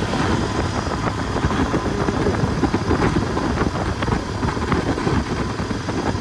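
Royal Enfield Interceptor 650's parallel-twin engine running while riding at road speed, with wind buffeting the microphone.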